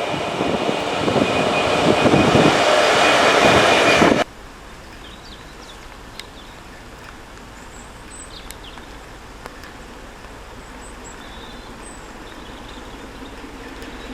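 A train passing close by, loud with an irregular low rumble and pulses, which cuts off abruptly about four seconds in. Then a quiet outdoor background remains, with faint high chirps.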